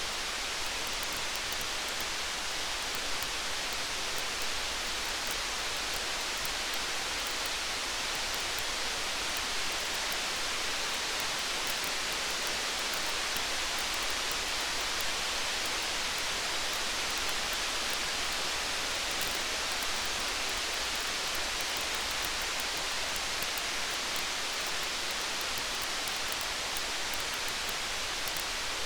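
Steady rain falling, a dense even hiss with faint light ticks scattered through it.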